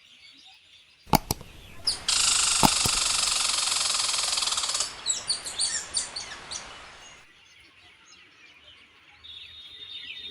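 Birds chirping: a loud, dense stretch of high chirping for about three seconds that stops abruptly, followed by scattered short calls. Two sharp clicks come just before it.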